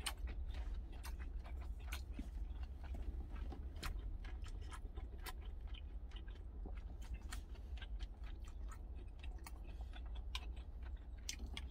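A person chewing food close up, with many small irregular clicks from the mouth, over a steady low rumble.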